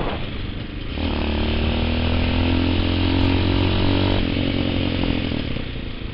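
TaoTao TBR7 dirt bike's single-cylinder four-stroke engine under way: it picks up revs about a second in, holds them steady for about three seconds, then eases off.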